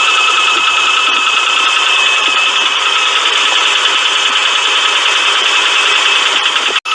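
Engine running with a fast, continuous rattling and clacking from a loose timing belt tensioner, with a steady high tone over it. The sound cuts out for an instant near the end.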